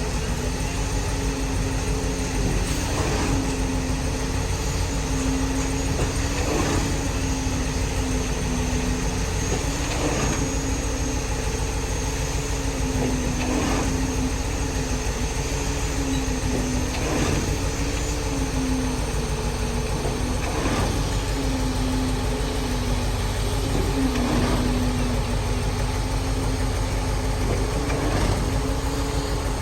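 Cement mixer truck running steadily, with a regular knock about every three and a half seconds.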